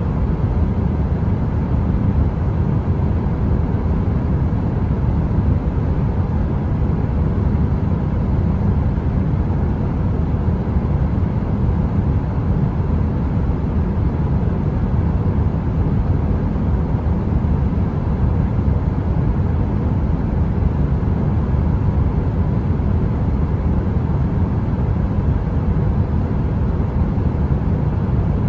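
Steady, unchanging deep rumble of heater white noise, weighted low like brown noise, with a faint steady tone in the midrange.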